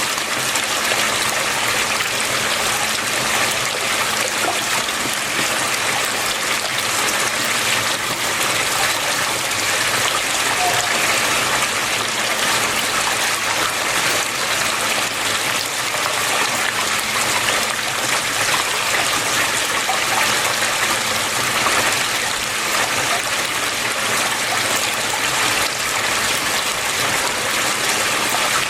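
Water flowing and splashing steadily, a continuous even rush with no pauses.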